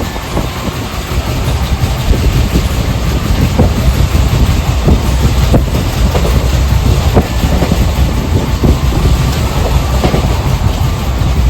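Passenger express train running on the line: a loud steady rumble from the wheels on the track, with irregular clattering knocks.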